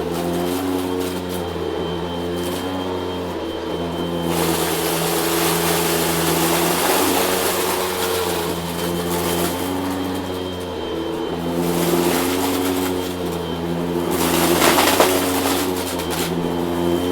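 Vacuum cleaner running steadily, its motor humming with a slightly wavering pitch. A rush of air noise comes in about four seconds in and drops away near the twelve-second mark, then swells again briefly around fifteen seconds.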